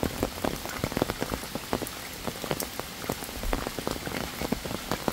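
Steady rain falling, with many irregular sharp drop hits close by.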